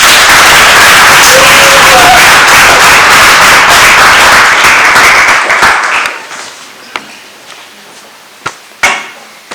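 Audience applauding loudly for about six seconds, then dying away, leaving a few scattered knocks.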